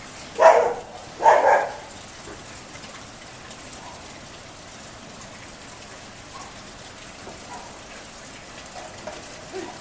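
Steady rain falling, with two short, loud calls or barks about half a second and just over a second in.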